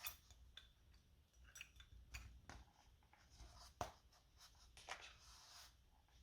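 Faint handling noises: scattered small clicks and short rubs or scrapes, with one sharper click about two-thirds of the way through.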